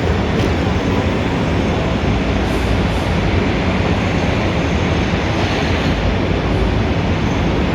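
Steady, dense roar of Times Square street traffic, a constant low rumble with no single vehicle standing out.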